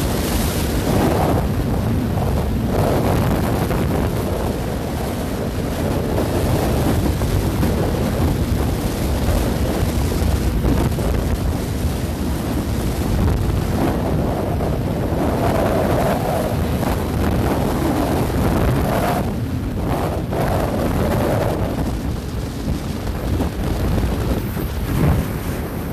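Wind rushing and buffeting the microphone of a motorcycle at highway speed, a loud, steady rumbling rush with road noise underneath.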